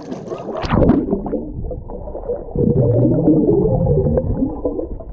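Muffled underwater gurgling and bubbling as a swimmer tries to dive down into a fervedouro spring, whose upwelling water keeps him from sinking; heard under water, with the sound cut off above a low pitch. It is loudest around the middle.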